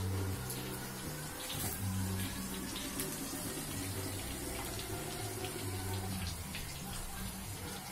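Food deep-frying in hot oil in a wok, a steady sizzle, with a few light clicks of metal tongs against the pan.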